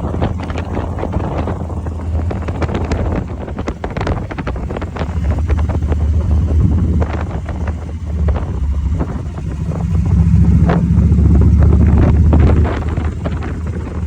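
A vehicle engine running with heavy wind buffeting the microphone, as when riding along; the engine rumble swells about ten seconds in, then eases off.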